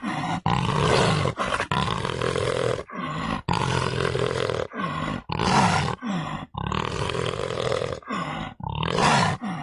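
A large animal calling loudly, a string of long calls broken by short pauses.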